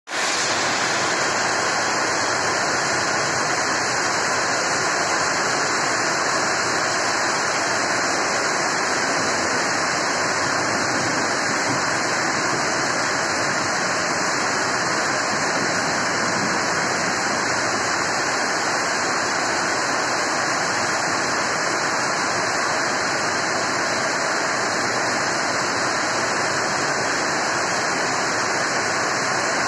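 Heavy rain pouring steadily onto a sheet-metal carport roof and splashing on the flooded asphalt.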